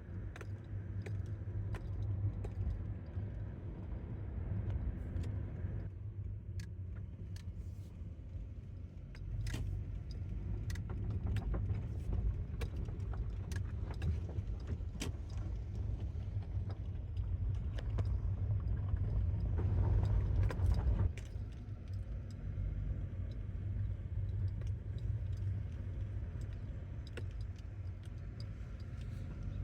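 Car driving: a steady low rumble of engine and road noise, with scattered light clicks and rattles throughout.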